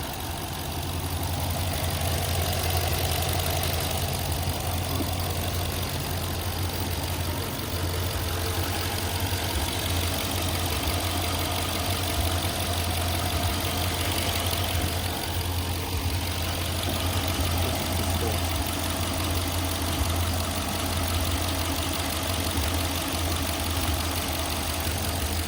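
Chrysler 300S's 5.7-litre HEMI V8 idling steadily, being run to warm the oil so it drains out fully.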